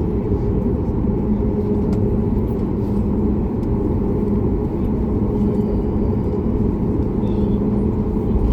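Cabin noise of a Boeing 737 MAX 8 taxiing: its CFM LEAP-1B jet engines running steadily, heard inside the cabin as a low rumble with a steady hum.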